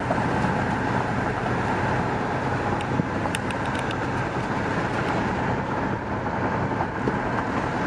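Steady road and engine noise of a car being driven, heard from inside the cabin, with a few faint clicks about three seconds in.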